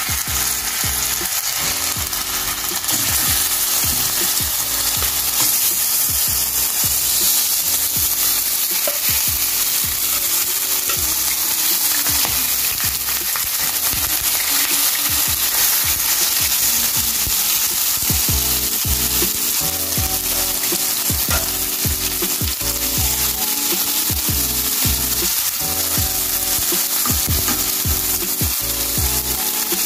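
Seasoned chicken breasts frying in a hot pot, a steady loud sizzle.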